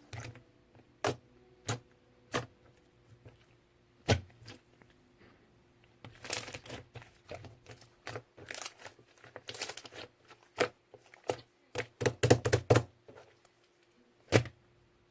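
Slime being pressed and poked by hand, making sharp clicking pops: a few single clicks spaced apart at first, then quicker crackling runs of clicks over the second half.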